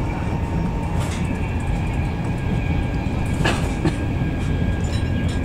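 Steady rumble of wheels and running gear heard inside a Mark 4 coach of a Class 91-hauled train running at speed, with a few short clicks and knocks, the sharpest about three and a half seconds in.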